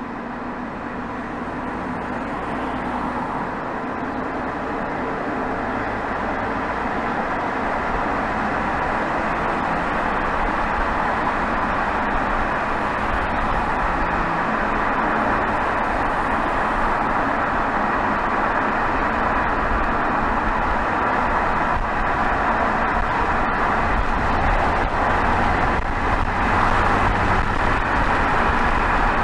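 Exhaust of a BMW 320d xDrive's 2.0-litre four-cylinder turbodiesel (B47) under way, picked up right beside the tailpipe, with road and tyre noise mixed in; the sound grows steadily louder as the car gathers speed onto the highway.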